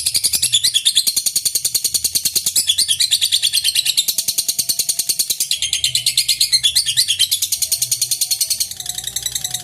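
A lovebird's ngekek: a long, unbroken run of shrill chattering notes, about ten a second, which bird keepers use to provoke other birds into calling.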